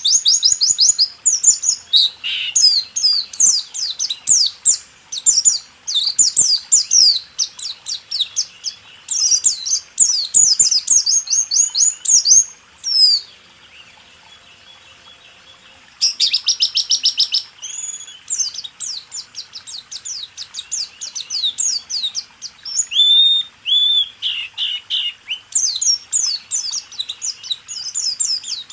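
White-eye (pleci) singing a fast rolling song ('roll tembak') of quick, high, down-slurred notes in long bursts, with a pause of a few seconds about halfway through. It is a tutor recording meant to teach caged birds to sing.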